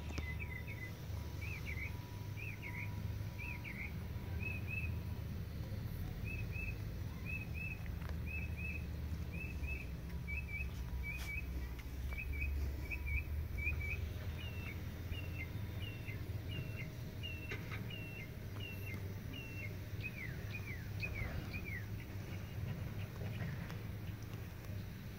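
A songbird singing a long run of short, repeated whistled phrases, about two a second, switching to a new phrase every few seconds and ending a few seconds before the close, over a steady low hum.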